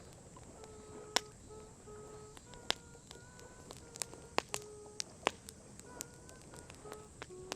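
Wood campfire crackling, with about nine sharp, irregular pops over a soft steady hiss. Short held notes sound faintly behind it.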